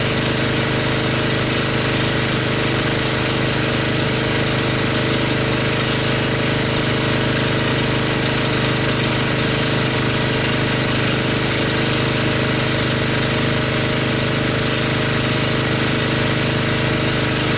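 Pressure washer running steadily while rinsing soap off a car, an even machine drone under a constant hiss of spray.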